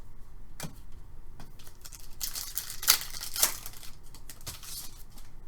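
Trading card pack wrapper crinkling and being torn as a pack of hockey cards is opened, with light clicks of cards being handled; the loudest rustle comes in the middle, with two sharp peaks.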